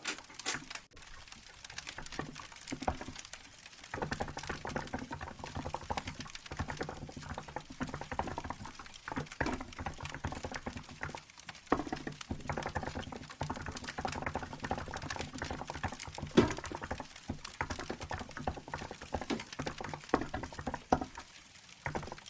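Typing on a Hansung GK868B mechanical keyboard with milk-white keycaps: a continuous, uneven stream of key clicks. A crackling wood fire sounds behind it, and a low steady hum comes in about four seconds in.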